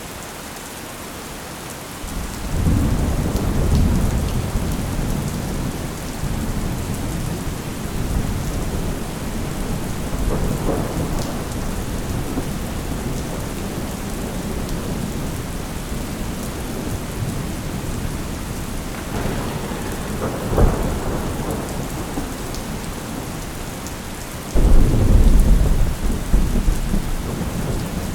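Steady rain with rolling thunder: a long low rumble builds a couple of seconds in, a brief sharper crack comes about two-thirds of the way through, and a loud thunderclap breaks out suddenly near the end and rumbles on.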